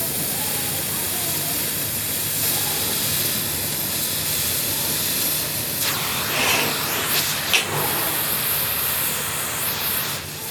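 A steady, loud hiss, with a few louder swells and a short sharp spike about seven and a half seconds in.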